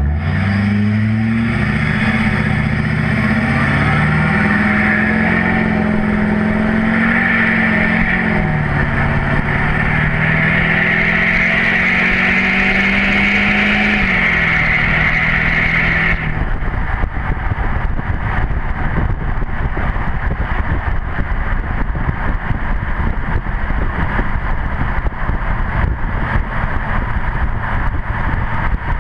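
Straight-piped LMM Duramax 6.6 L V8 turbodiesel with no muffler, accelerating hard. The exhaust note climbs, drops back at two gear shifts, and rises again, under a steady high turbo whistle. About halfway through the whistle cuts off suddenly as the throttle is released, leaving a rough, noisy rumble from the open exhaust.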